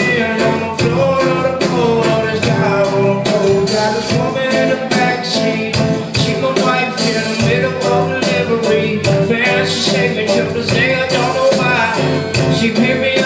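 Live band performing a rock song with a steady beat, recorded on a phone from the audience.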